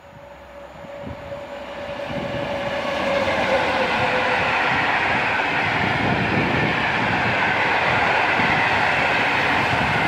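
Locomotive-hauled passenger train passing at speed: its noise grows over the first three seconds as the locomotive comes by, then the carriages run past with steady wheel-on-rail noise and clatter. A faint tone drops slightly in pitch as the locomotive goes by.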